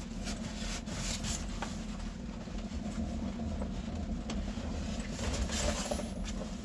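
A steady low rumble, with scattered light clicks and knocks from things being handled.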